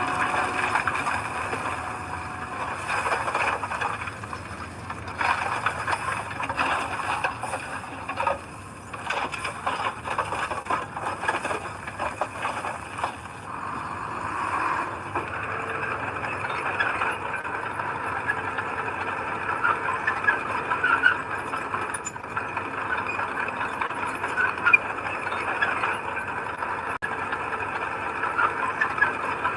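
Heavy earthmoving machinery running, with metallic squealing and rattling over the engine; the clatter is denser in the first half.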